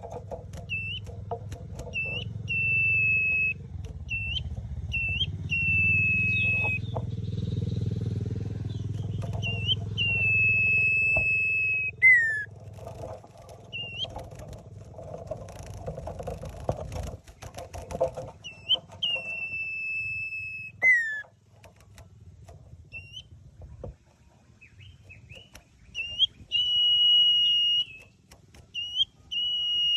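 Common iora singing: short rising whistles and long, steady whistled notes, several of which end in a quick downward slide. A low rumble runs underneath for the first half.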